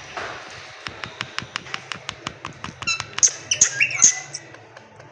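Indian ringneck parakeet making a fast run of sharp clicks, about six a second, then giving a few short, high squawks with quick downward bends about three seconds in.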